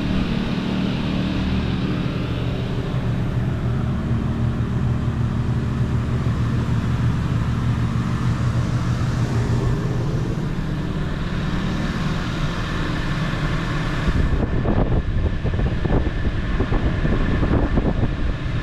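Champion inverter generators running steadily under the load of the camper's air conditioner, a constant engine hum mixed with the air conditioner's running noise. From about three-quarters of the way through, a few knocks and rustles join the hum.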